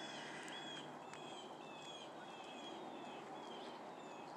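Several small songbirds calling together: a steady stream of short, high, downward-slurred chirps, several a second and overlapping.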